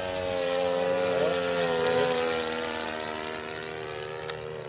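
The .91-size engine of an RC Hawker Hurricane warbird in flight, chugging along at a steady note. It grows louder to a peak about two seconds in, then fades as the plane passes.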